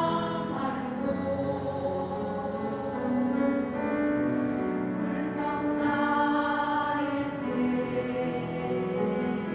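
Church vocal ensemble singing a gospel hymn in harmony, with long held notes.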